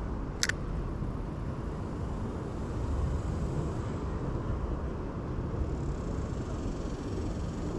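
Steady low rumble of wind on the microphone, with one sharp click about half a second in.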